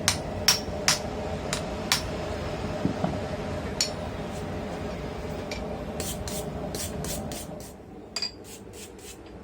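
Hand hammer striking hot steel on the anvil while forging tong jaws: sharp ringing blows about two a second, then sparser blows and a quick run of lighter taps. A steady hum runs under the blows and drops away about three-quarters of the way through.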